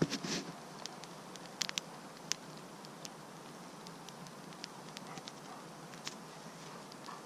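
Wood campfire crackling, with scattered sharp pops every second or so over a low steady hiss, and a louder knock right at the start.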